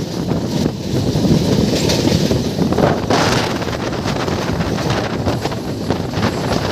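A passenger train running on the rails, heard from on board, with wind on the microphone; a brief gust of wind noise about three seconds in.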